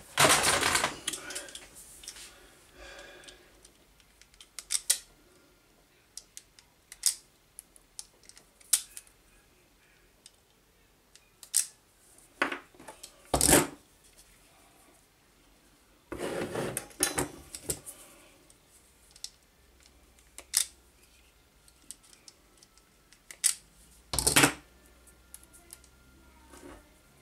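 Scattered clicks, snips and short scraping rustles of small hand tools and wire being handled while a snapped wire is rewired, with quiet gaps between them.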